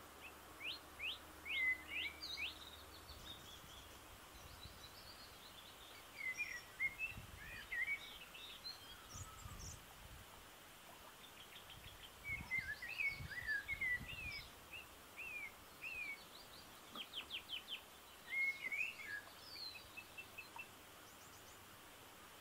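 Songbirds singing: several bursts of quick chirps and warbled phrases, with short pauses between them, over a faint steady hiss.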